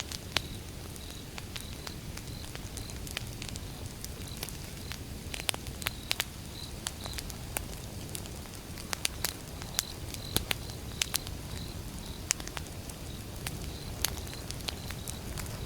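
Wood fire burning, with irregular sharp crackles and pops over a low, steady rush of flame.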